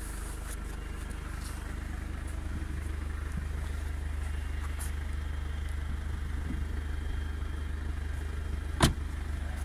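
Car engine idling steadily, a low even hum. A single sharp click near the end.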